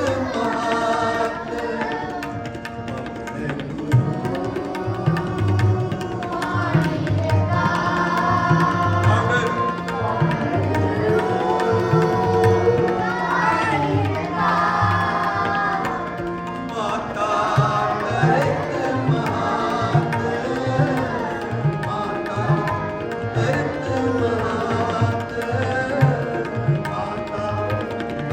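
A group singing a Sikh shabad together in kirtan style, with tabla keeping a steady rhythm under the voices.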